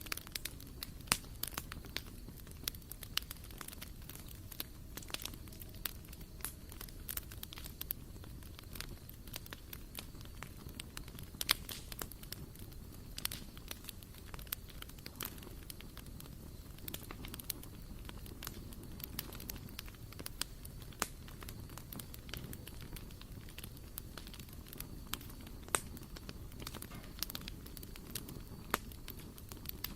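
Wood fire burning in a barbecue grill: frequent sharp crackles and pops over a steady low rustle of flame.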